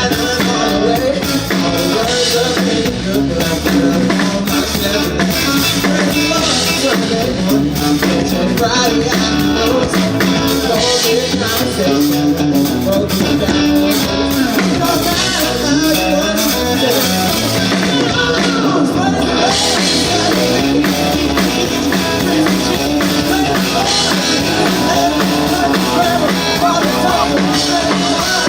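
A band playing rock-style music with drums, guitar and singing.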